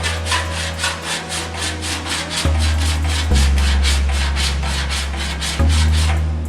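Rapid back-and-forth hand strokes of an abrasive over a car body panel repair, about five strokes a second, stopping just before the end.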